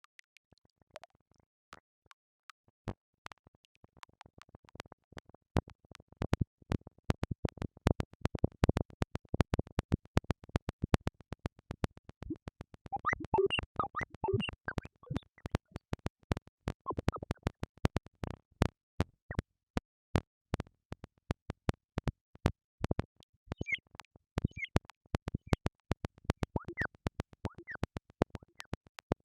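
Synthesized robotic sound effect: dense, irregular electronic clicking and crackling that thickens a few seconds in, with short chirping blips around the middle and again near the end.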